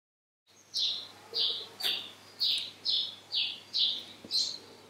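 A bird chirping over and over, short falling chirps about two a second, starting about half a second in after a dead-silent cut.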